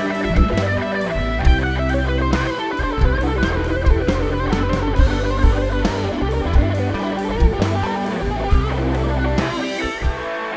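Rock band playing an instrumental passage: electric guitar lines over bass and a drum kit keeping a steady beat. The drums and bass drop out near the end, leaving the guitar.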